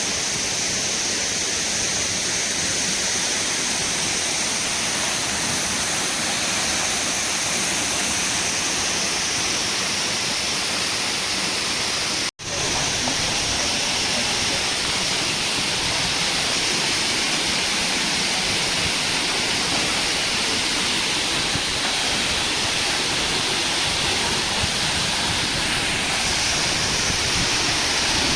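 Steady rush of water, an even hiss strongest in the upper range. It cuts out for an instant about twelve seconds in.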